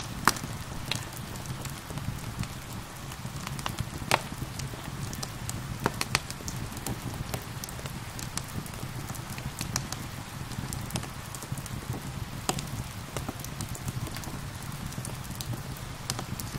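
Wood fire crackling with irregular sharp pops over a steady hiss of rain. A few pops stand out louder: just after the start, around four and six seconds in, and around twelve seconds in.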